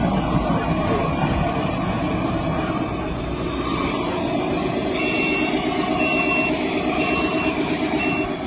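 Truck engine running with a steady rumble. About halfway through, a reversing alarm starts beeping, about one beep a second.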